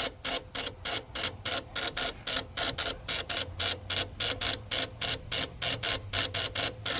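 Generac 16kW standby generator's starter solenoid chattering instead of cranking the engine: rapid, even clicking at about five clicks a second. It is a no-start fault that the owner puts down to a bad starter solenoid.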